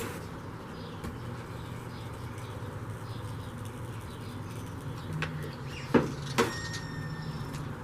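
Two sharp metal strikes about half a second apart, the second leaving a brief ringing tone, over a steady low hum.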